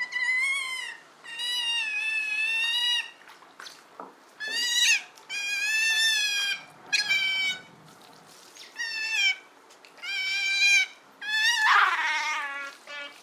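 Giant otter calling: a series of about eight high-pitched, wavering calls, each from half a second to nearly two seconds long. The last call, near the end, is the loudest and falls in pitch.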